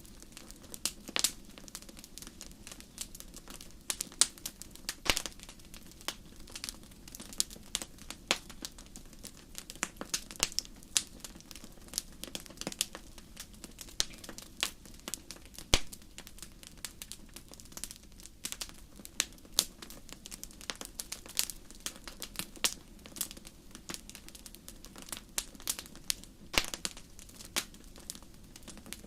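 Wood fire crackling in a fireplace: irregular sharp pops and snaps, sometimes several close together, over a steady low background noise.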